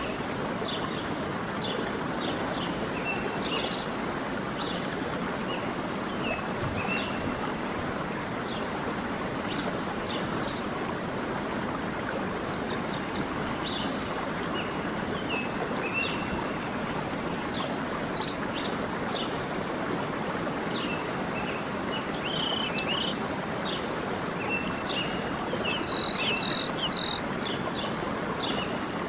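A stream flowing steadily, with birdsong over it: one bird repeats a short call that falls in pitch about every seven seconds, among many short chirps, with a quick run of high notes near the end.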